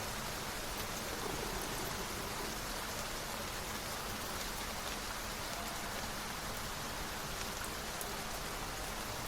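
Steady rain falling, an even, unbroken wash of raindrops.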